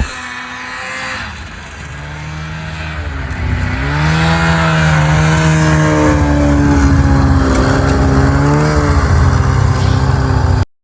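Snowmobile engine running, rising in pitch as it speeds up about four seconds in, then holding steady at speed with small wavers. The sound cuts off suddenly near the end.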